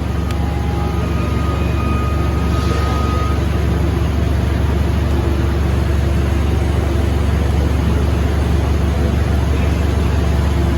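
A steady, loud low rumble of running machinery.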